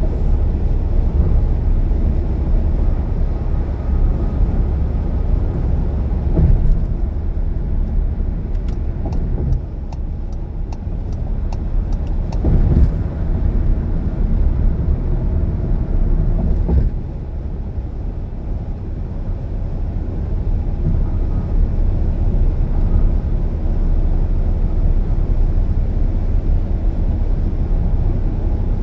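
Car driving at highway speed: steady low rumble of road and engine noise. A short run of faint, evenly spaced ticks comes about a third of the way in, and the rumble eases a little twice.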